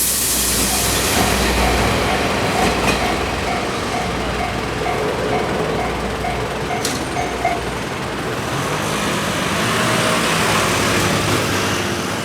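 Twilight Express 24 series passenger coaches rolling past with a low rumble while a railway level-crossing alarm dings about twice a second. The alarm stops about seven and a half seconds in, and the rumble fades soon after.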